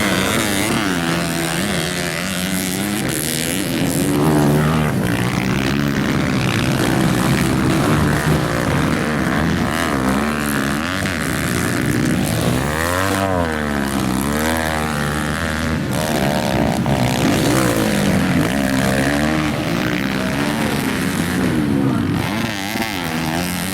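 Several motocross dirt bikes racing on a grass track, their engines revving up and dropping back over and over as the riders open the throttle, shift and brake into corners.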